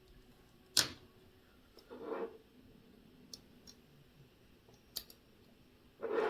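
Small metal tools and watch parts being handled on a workbench: a sharp click about a second in, a few faint ticks, and two short scraping rustles, one around two seconds and a louder one near the end.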